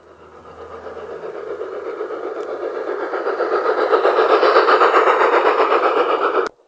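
LGB G-scale model locomotive running with its onboard sound unit playing locomotive sound, together with the wheels running on the garden track, growing steadily louder and then stopping abruptly near the end.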